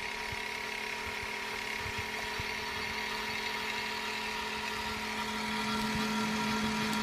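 A steady mechanical-sounding hum or whir with a few held tones, growing slightly louder.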